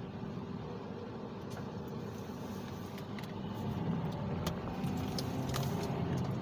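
Car interior noise: a steady low engine and road rumble with a faint hum, and a few scattered light clicks.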